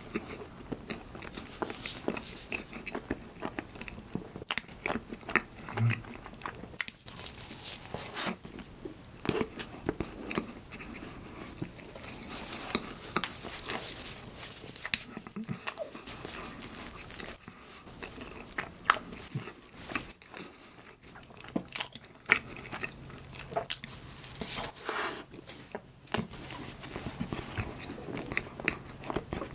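Close-miked chewing and biting of a soft bun filled with cream and red bean paste: many short, sticky mouth clicks, with louder bites now and then.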